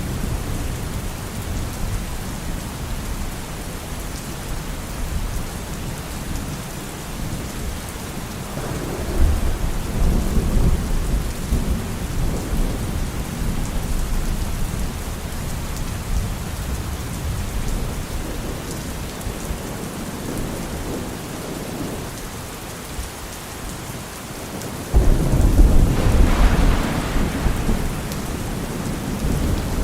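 Steady rain with rolling thunder: a low rumble swells about nine seconds in, and a louder thunderclap breaks in suddenly about 25 seconds in and rumbles on for a few seconds.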